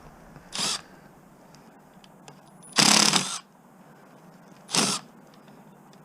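Cordless power driver run in three short trigger bursts, one longer than the others, on a flathead screw that will not come out.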